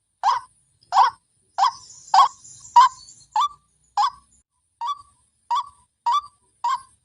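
White-breasted waterhen (wak-wak) lure call: a short harsh note repeated steadily about every 0.6 s, eleven times.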